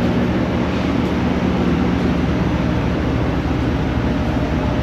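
Steady drone of a large fan or air-conditioning unit running, with a low hum under it.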